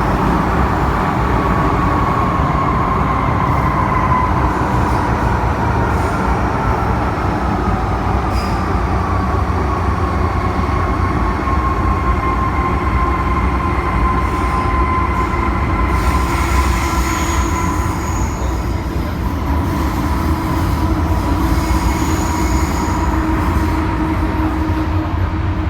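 MTR M-Train electric multiple unit running on the Tseung Kwan O line. It is a steady, loud rumble with a high whine that slowly falls in pitch.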